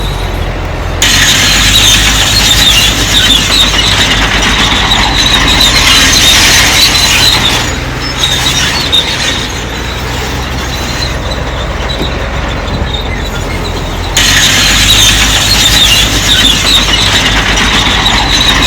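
Crawler bulldozer running steadily, its steel tracks squealing high and harsh in two long stretches, about a second in until nearly eight seconds, and again from about fourteen seconds on.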